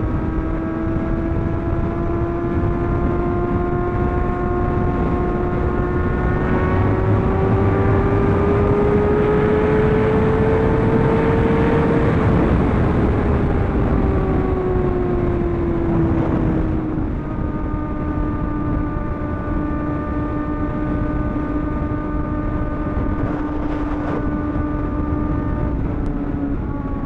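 Superbike engine pulling at highway speed over a steady rush of noise. Its note rises slowly for the first twelve seconds or so, drops back over the next few seconds, then holds steady.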